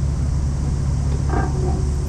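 Sightseeing boat's engine running with a steady low hum, and a gull calling once, briefly, about a second and a half in.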